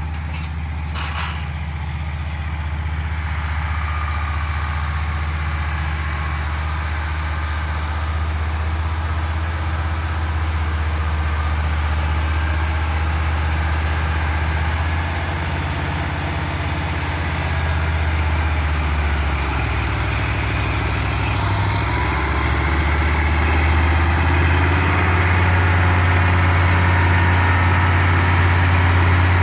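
White 2-180 tractor's diesel engine running steadily, a deep, even drone that shifts pitch slightly in the middle and grows a little louder near the end. A brief tick sounds about a second in.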